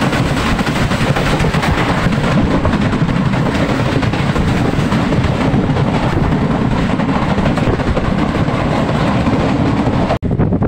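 MEMU passenger train running at speed, heard from inside the coach: a steady, loud rumble of wheels on the track. It breaks off abruptly near the end.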